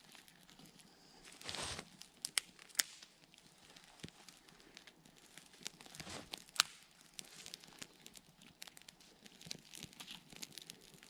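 Wood fire crackling, with irregular sharp snaps and pops and a few short rustling bursts.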